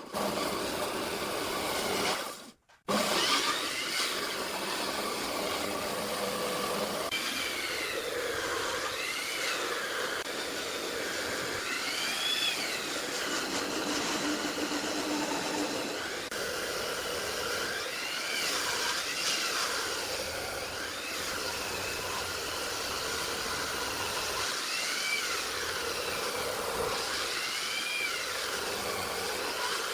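A power tool running on wood, its motor pitch rising and falling every few seconds as the load changes. A brief break about two and a half seconds in.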